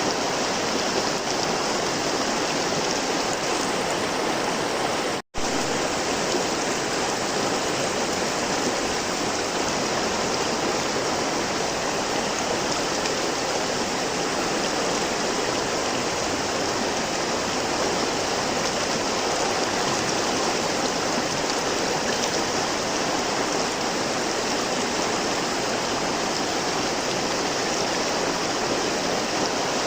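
River water flowing steadily, an even rushing hiss. It cuts out for an instant about five seconds in, then resumes unchanged.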